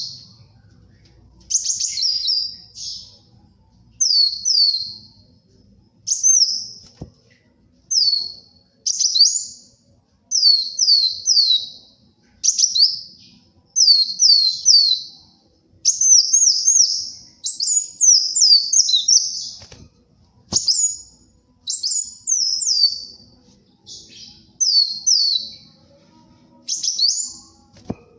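Kolibri wulung sunbird singing: short, high, rapid phrases of two to four quick downward-sweeping chirps, repeated about once every second or so.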